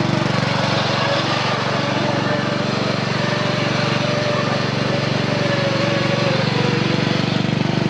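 Small engine running steadily, with a faint wavering whine above it.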